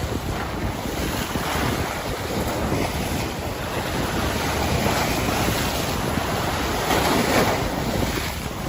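Ocean waves surging and washing, with wind rumbling on the microphone; the rush swells and eases every few seconds, strongest near the end.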